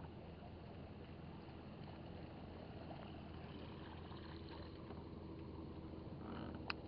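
Faint steady low hum over a soft haze of water and outdoor noise, with a single sharp click near the end.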